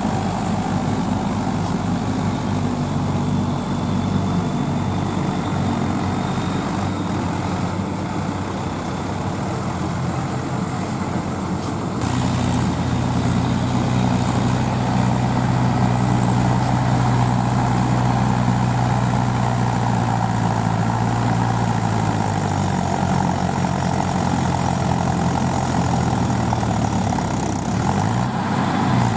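Tractor's diesel engine running steadily. About twelve seconds in the sound changes abruptly and gets louder, and the engine note drops again later, with a brief rev near the end.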